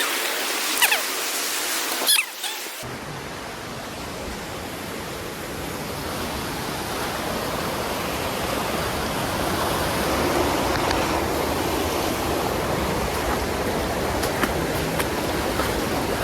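Steady rushing of a waterfall that grows gradually louder. The first three seconds are thinner and hissier, with two sharp knocks, until a sudden change to the fuller rush.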